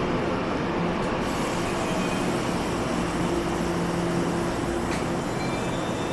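Puyuma Express tilting electric train running slowly along the platform as it draws to a stop: a steady rumble with a low, even hum.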